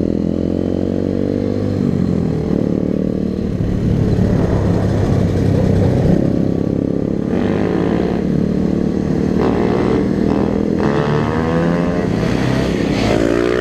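Enduro dirt bike engine running under way, heard close from the rider's own bike, its revs rising and falling with the throttle and climbing in a rev near the end.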